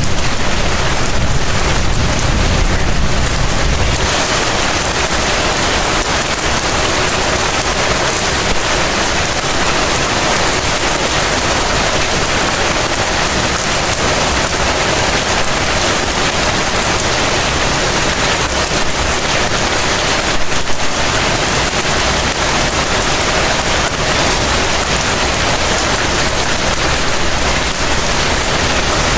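Heavy rain falling steadily, a dense even hiss, with a low rumble underneath that fades out about four seconds in.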